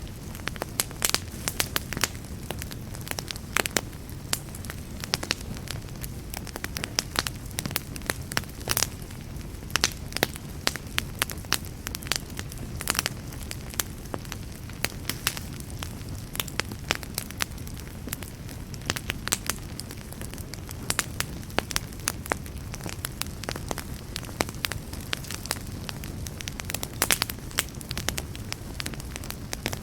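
Wood campfire burning with a steady low rush, and irregular sharp crackles and pops scattered throughout, several a second at times.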